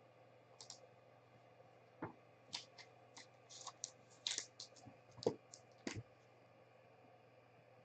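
Trading cards and their plastic holders handled on a table: a scatter of light clicks and taps, about a dozen over five seconds.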